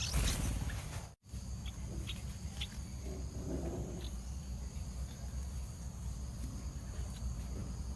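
A few short, sharp call notes from a yellow-vented bulbul, scattered through the first half, over a steady low rumble. The sound cuts out completely for a moment about a second in.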